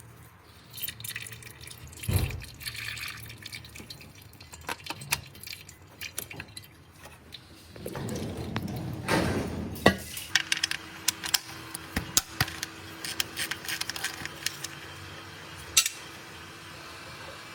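Engine oil pouring and dripping, with scattered clicks and clinks of tools and containers. There is a louder rush of liquid about eight to ten seconds in, and after it a faint steady hum.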